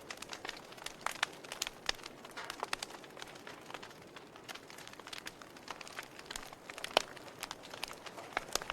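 Campfire crackling: irregular sharp pops and snaps from burning wood over a soft steady hiss, with one louder pop about seven seconds in.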